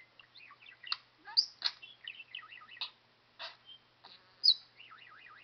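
Pet budgerigar chattering and warbling in quick, scratchy runs broken by sharp chirps, the loudest about a second and a half in and again near the end.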